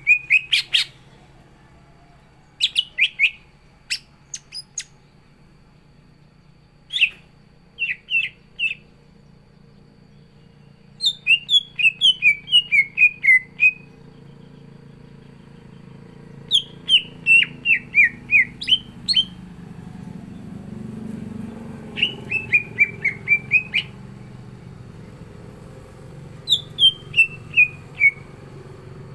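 Cucak ijo (green leafbird) singing: repeated phrases of quick, downward-sweeping chirps, each phrase one to two and a half seconds long, separated by pauses of a few seconds, with a few short sharp clicks in between.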